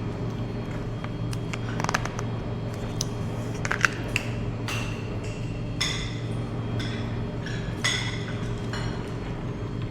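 Dishes and cutlery clinking several times, some clinks ringing briefly, over a steady low hum.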